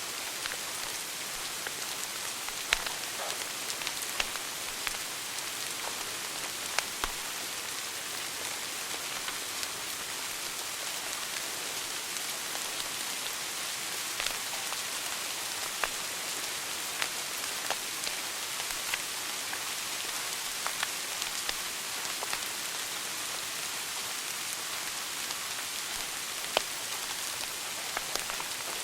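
Wood fire burning in a fireplace: a steady hiss with irregular sharp crackles and pops, a few of them louder snaps.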